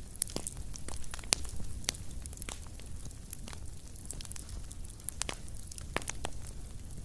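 Wood fire crackling in a fireplace: irregular sharp pops and snaps, a few louder ones in the first two seconds, over a low steady rumble of the burning logs.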